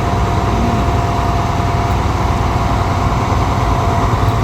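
An engine idling steadily: a low rumble with a constant high hum over it.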